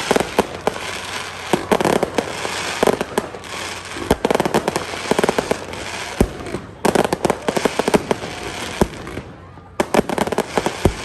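Fireworks display: dense, rapid popping and banging of many shells at once, easing off briefly near the end before another volley.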